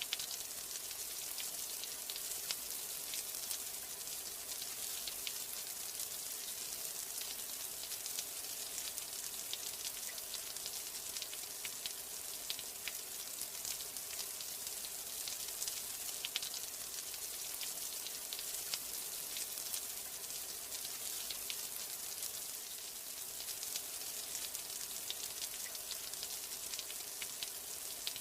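Steady rain: an even hiss thick with fine, scattered drop ticks, unbroken throughout.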